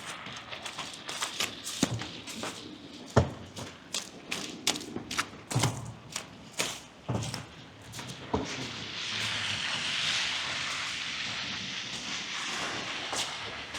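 Footsteps crunching and thudding in snow, irregular and uneven. About eight seconds in, a steady rushing hiss rises and holds for about five seconds.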